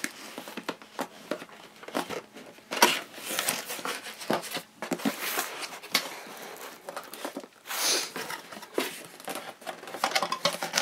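Toy box packaging being cut and torn open: irregular crinkling, tearing and rustling, with scattered sharp clicks.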